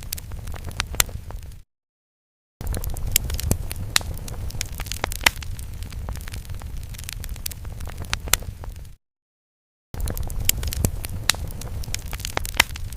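Crackling fire sound effect: a low rumble of flames with frequent sharp pops and crackles. It cuts to dead silence for about a second, twice, where the looped effect restarts.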